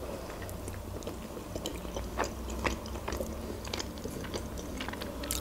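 A person chewing a mouthful of salad close to the microphone: soft, irregular wet mouth clicks and smacks over a faint low hum, with one sharper click near the end.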